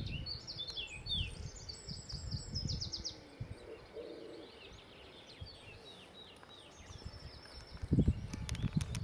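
Small birds singing, a rapid series of quick falling chirps that is busiest in the first few seconds and fades after. Low uneven rumbling lies underneath, and a louder low thump with a few sharp clicks comes about eight seconds in.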